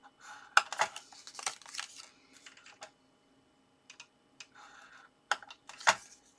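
Paper pieces being scored with a scoring tool: short scratchy drags along the card and sharp irregular taps of tool and paper on the work surface, the loudest a little over half a second in and again near the end.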